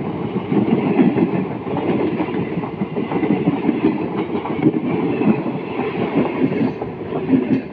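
A train passing at speed right beside the rail, heard from a phone lying on the track: a loud, continuous rumble and clatter of steel wheels rolling over the rail.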